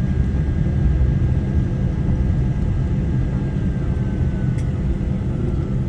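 Airliner cabin noise in a Boeing 787-9 on the ground after landing: a steady low rumble from the engines and the rolling aircraft. A faint high whine runs over it and dips slightly in pitch near the end.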